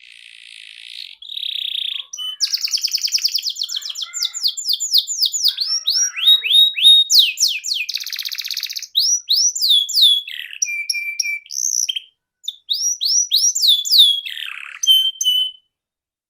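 Canary singing a long, varied song: two buzzy notes, then rapid trills, runs of falling whistled notes and rolls, with a brief pause about twelve seconds in.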